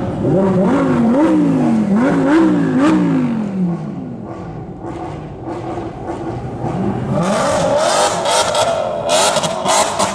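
Sports car engine revved repeatedly, its pitch climbing and dropping about four times in quick succession. After a quieter moment an engine picks up again and runs higher, with a series of sharp cracks in the last few seconds.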